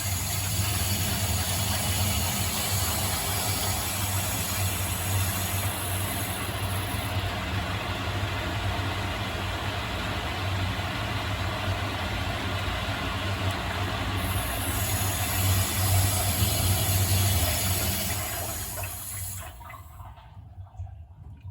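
Cold water rushing through the supply valve and pipes into a drained water heater tank, a steady loud rush with a low hum, flushing sediment out. It stops near the end as the valve is closed.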